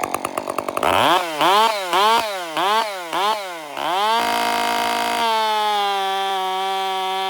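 Two-stroke chainsaw at full throttle test-cutting with a deliberately blunted chain. Its engine speed dips and recovers about five times as it bites, then holds a steady high pitch from about five seconds in.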